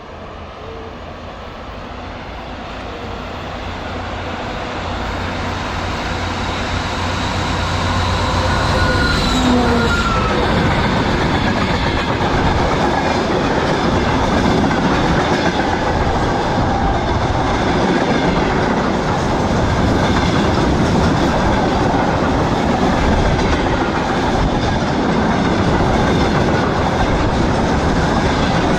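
2TE116 twin-section diesel locomotive approaching with its diesel engines running, growing louder and passing about nine seconds in with a drop in pitch. Then a freight train's wagons roll past with a steady rumble and the clickety-clack of wheels over rail joints.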